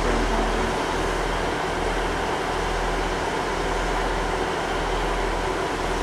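Northern diesel multiple unit slowly pulling out of a platform, its engines giving a steady low hum.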